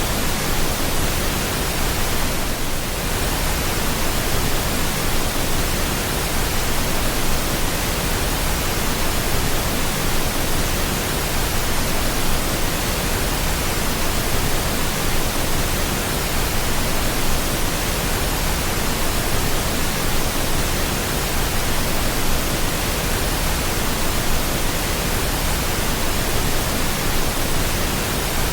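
Pink noise: a steady, unchanging hiss with a deep low-end rumble, played as a continuous sleep-noise track to calm a crying baby.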